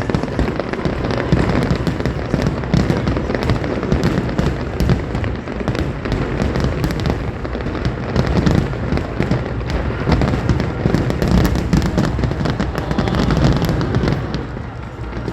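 Aerial fireworks going off continuously, many bangs and crackles overlapping into a dense, loud barrage with a deep rumble beneath, easing slightly near the end.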